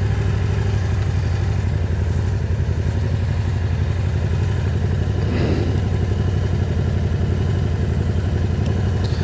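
Can-Am Spyder three-wheeled motorcycle's engine running steadily at cruising speed, with road and wind noise.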